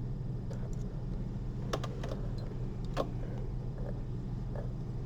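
A few small, sharp clicks of surgical instruments (needle driver and forceps) handling a needle and suture, over a steady low hum.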